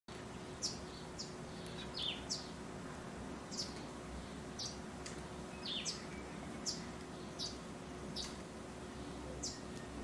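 Small birds chirping: short, high, falling chirps repeated irregularly, about one or two a second, over a faint steady hum.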